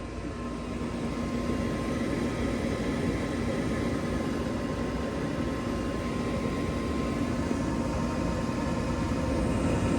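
The draft inducer fan motor of a Carrier Performance Series gas furnace is spinning up at startup and then running with a steady hum and whir. It grows louder again near the end.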